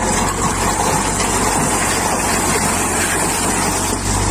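Dump truck's diesel engine running steadily with a constant low hum while its raised bed tips out a load of rocks and soil, the load sliding and pouring out.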